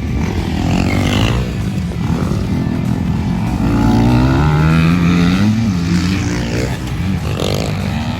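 Motocross dirt bike engine revving hard on the track, its pitch climbing steadily through the middle and dropping back off, then picking up again.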